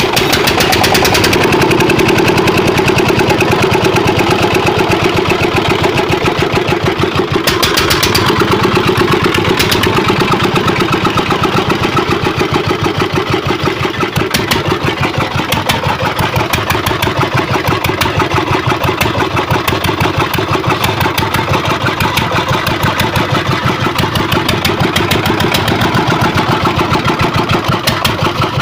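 Old diesel engine running steadily just after being started, its firing strokes making a fast, even beat.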